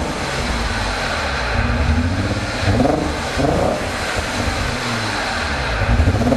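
Newly fitted car engine running on its first start after being installed, its revs rising briefly a few times.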